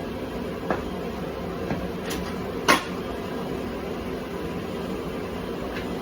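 1984 Honda XL600R single-cylinder engine failing to start: a few sharp pops over steady noise, the loudest about two and a half seconds in. It pops and kicks back even with the timing set correctly.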